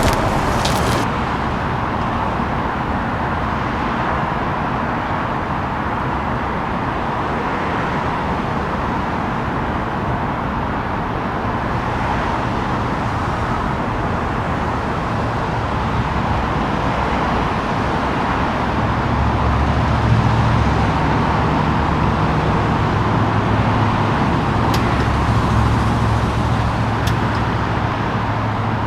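1966 Chevy C-10 pickup with a 350 V8 being driven: steady engine and road noise, with a low engine drone growing stronger about two-thirds of the way in.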